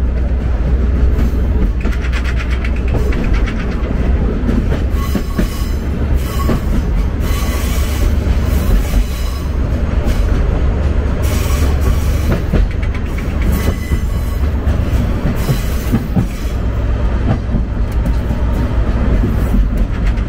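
Sagano Romantic Train running along the track: a steady low rumble, with louder rushes of wheel-on-rail noise every couple of seconds.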